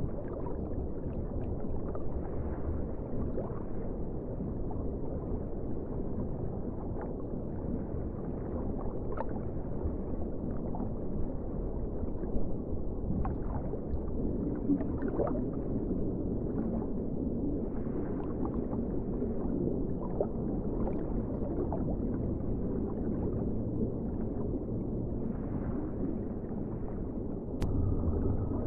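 Underwater ocean ambience: a steady, dull low rush of water with scattered faint bubbling ticks, and one sharp click near the end.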